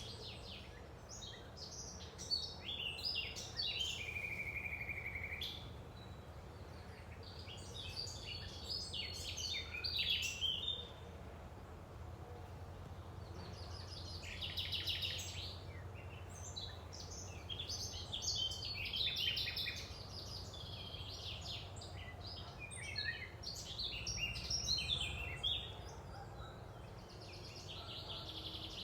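Songbirds singing in bouts of quick, high chirping phrases, about every few seconds, with one held whistled note about four seconds in. A steady low hum runs underneath.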